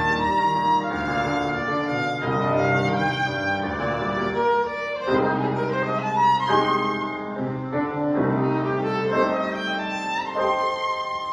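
Violin playing a slow, sustained melody with piano accompaniment, the notes held and changing every second or so; the music grows a little softer near the end.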